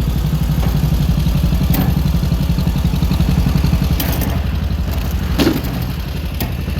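Engine of a log-skidding machine running steadily in first gear while trying to drag a tree out, with a few sharp knocks and clanks from the chain and log.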